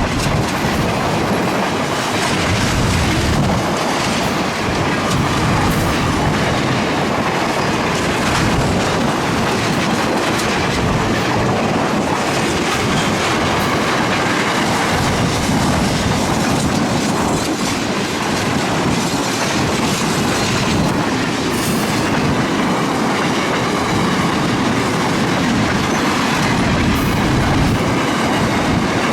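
Freight train wagons rolling past at speed, steel wheels clicking over the rail joints in a steady, loud rush.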